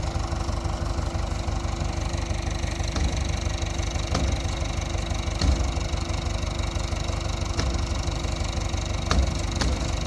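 An engine running steadily with a low drone, with short sharp clacks every second or two.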